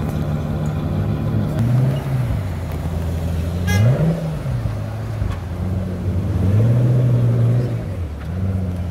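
Pagani Huayra's twin-turbo V12 idling, blipped with the throttle: a short rise about two seconds in, a sharp blip at about four seconds, and a longer, louder rev held for about a second near seven seconds.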